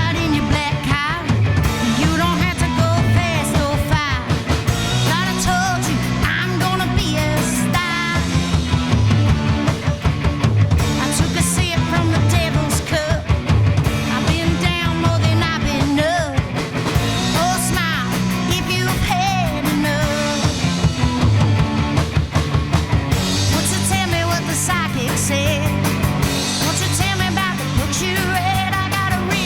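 Rock band playing a song live: loud, driving rock music with a lead vocal over the band.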